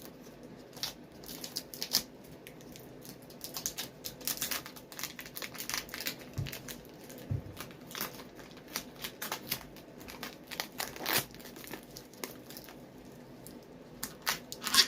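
Adhesive tape being pulled off the roll and pressed around a rubber boot to hold its freshly glued sole: irregular crackling and tearing, with a few louder crackles late on.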